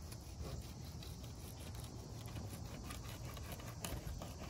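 Fillet knife scraping along a perch fillet's skin on a plastic cutting board as the meat is cut free from the skin. Faint, with many small ticks and a sharper click near the end.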